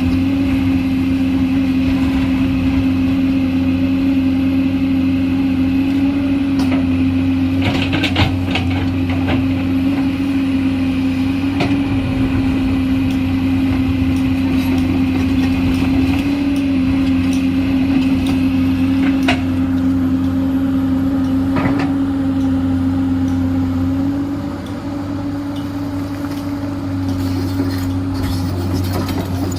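Komatsu PC210 excavator's diesel engine running steadily, with a few sharp knocks scattered through. It eases off slightly about three-quarters of the way in.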